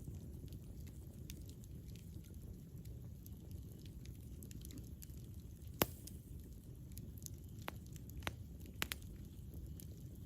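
Campfire burning with a low steady rumble and scattered crackles and pops of burning wood; one sharp pop about six seconds in is the loudest, with a few more a little later.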